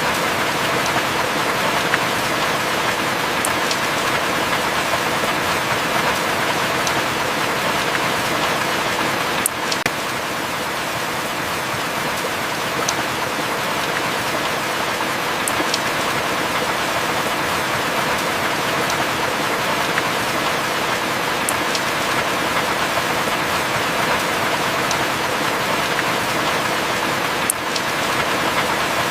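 Heavy rain falling steadily as an even hiss, with a sharp tick of a single drop every few seconds.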